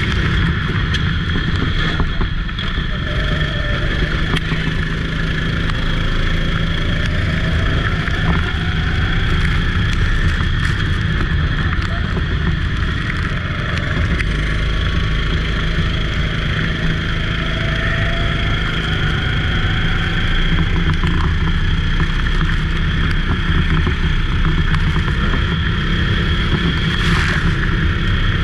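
Racing go-kart engine running steadily and loudly, with a few faint engine notes rising and falling in the middle.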